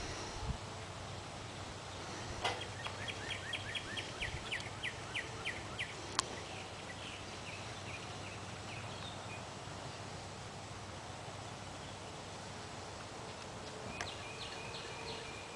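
A bird calling in a rapid series of short, high notes, about five a second for a few seconds and then slowing, with a shorter burst near the end, over a steady outdoor hiss. A single sharp click comes about six seconds in.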